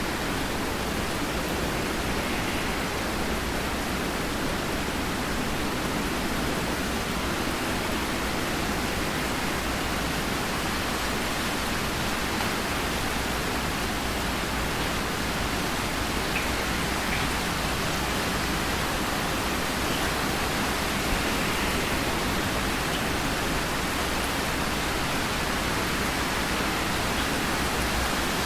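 Steady rain falling, an even unbroken hiss with a few faint drop ticks and no clap of thunder.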